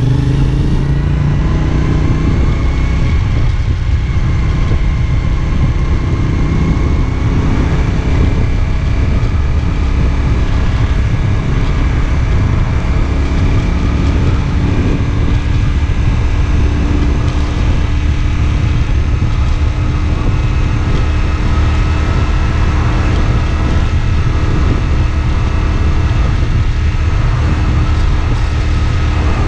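CFMoto 450SR S parallel-twin engine running under way at a steady speed. Its pitch eases down over the first two seconds or so, then holds level.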